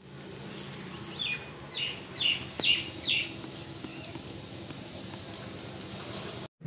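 A bird chirping five times in quick succession, short falling notes, over a steady low hum.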